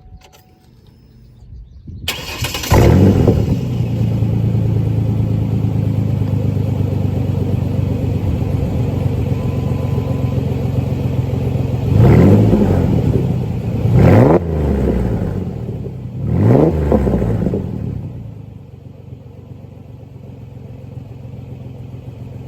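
Straight-piped exhaust of a 2008 Ford Ranger's 4.0 V6, with no muffler. The engine starts about two seconds in and idles. It is revved three times in quick blips about two seconds apart, then settles back to a quieter idle.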